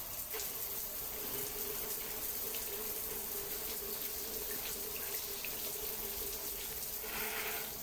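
Water running steadily, with a steady hum under it from about half a second in and scattered small drips or ticks; a brief louder rush of water near the end.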